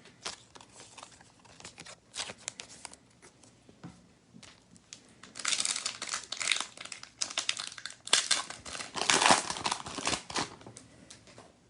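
A foil trading-card pack wrapper crinkling as it is handled and torn open. There are light rustles and clicks at first, then two longer, louder stretches of crinkling near the middle and end.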